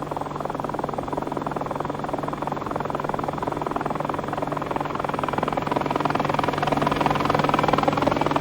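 Helicopter in flight: rapid, even chopping of the rotor blades over a steady engine tone, growing louder over the last few seconds as it comes closer.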